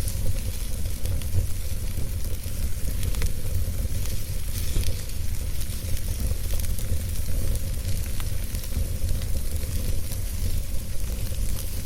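Wood fire burning with a steady low rumble and hiss, and scattered sharp crackles and pops.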